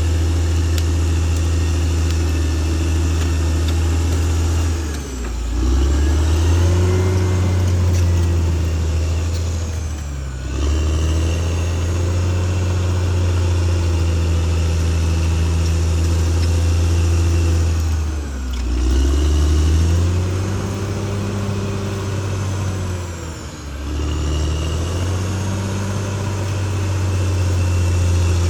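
Caterpillar D6R XL bulldozer's diesel engine running steadily. Its engine speed dips and climbs back four times, as when the dozer takes on and sheds load or changes direction.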